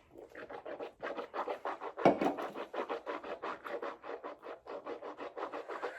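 Quick run of scratching or rubbing strokes, about seven a second, with one louder knock about two seconds in.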